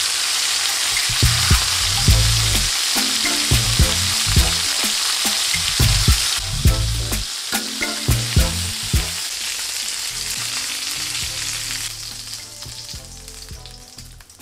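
Chicken thighs sizzling in oil on a ridged cast-iron grill pan, with sharp clicks of tongs handling the pieces. The sizzle fades away near the end.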